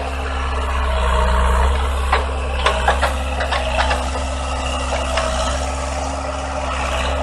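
Heavy construction machine's engine running steadily, with a string of sharp knocks and clanks about two to four seconds in.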